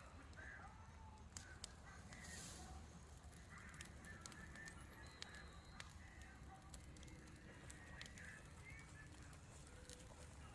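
Faint bonfire of burning tree limbs crackling, with small scattered pops and clicks, and birds calling faintly.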